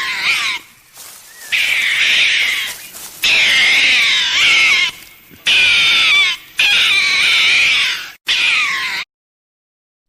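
An animal calling about six times in a row, long high-pitched wavering cries, stopping about nine seconds in.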